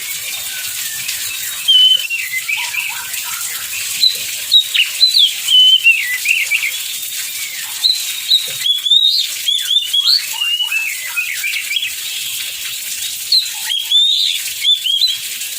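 Oriental magpie-robin singing a rapid, varied song of whistled notes and short trills, over the steady hiss of heavy rain.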